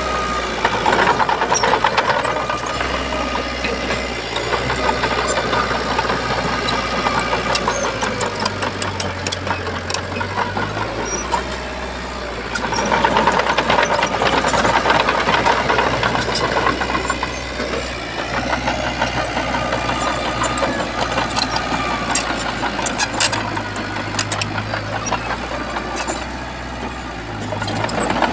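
Shantui bulldozer's diesel engine running, rising in loudness under load about a second in and again around the middle.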